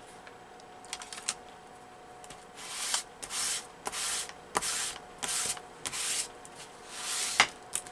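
Paper being rubbed in a series of short strokes, roughly two a second, starting about two and a half seconds in, with a few light clicks before and a sharper click near the end. The strokes come from working a freshly glued collage background paper on a book page.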